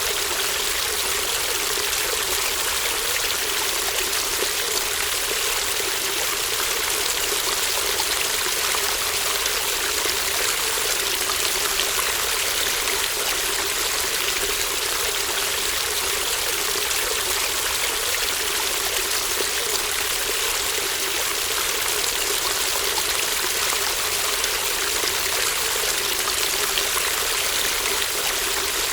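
A shallow stream murmuring steadily, a continuous even rush and trickle of running water with no breaks.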